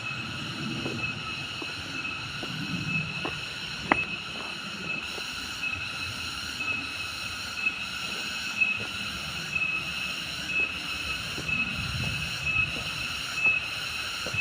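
Steady, shrill drone of jungle insects such as cicadas, its higher part pulsing about one and a half times a second. There is a low rustling underneath and a sharp click about four seconds in.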